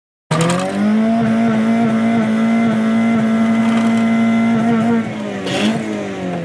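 Honda Civic's four-cylinder engine, heard from inside the cabin, held at a steady high rev against the rev limiter with slight stutters. About five seconds in the revs drop, followed by a brief hiss.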